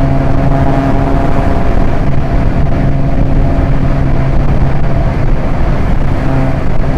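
Proton Inspira's 1.8-litre four-cylinder engine running at steady revs under way, a constant drone over tyre and road noise.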